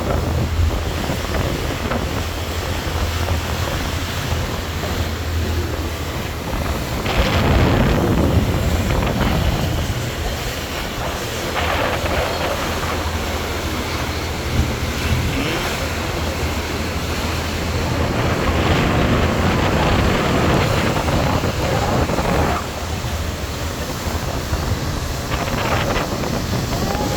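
Wind buffeting the microphone over the steady low drone of the ferry's engines, with stronger gusts about seven seconds in and again around twenty seconds in.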